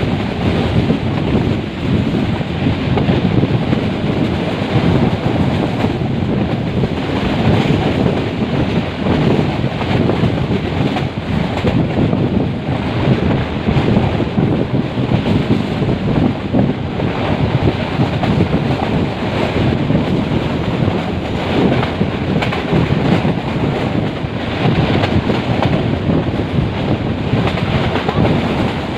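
Steady rumble of a metre-gauge passenger train running, with wind buffeting the microphone.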